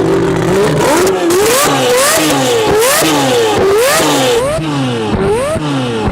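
Rotary engine revving in quick repeated throttle blips, its pitch rising and falling about every half second, after a short steady hold at the start.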